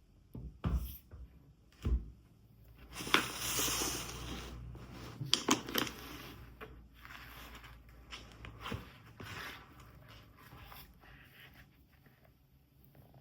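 Household handling sounds: a few knocks and clicks, then a few seconds of rushing noise with sharp clicks that fades away.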